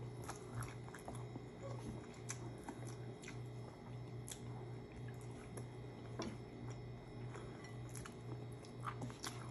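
Close-up eating sounds: a person chewing food with soft, scattered mouth clicks and smacks, over a steady low hum.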